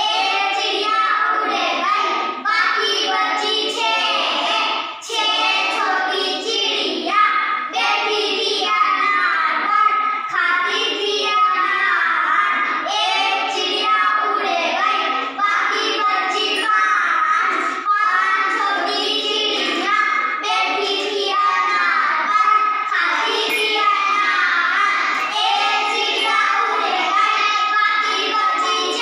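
Child's voice singing a Hindi counting rhyme about ten little birds, steady and without pause.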